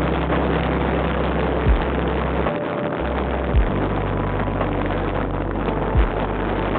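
Steady running noise of a vehicle on the move, with a strong low rumble and three dull low thumps spaced about two seconds apart.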